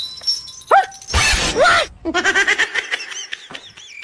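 Cartoon-style comedy sound effects after a slap: sliding squeals and a noisy swish about a second in, then a fast run of high squeaky tones and chirps.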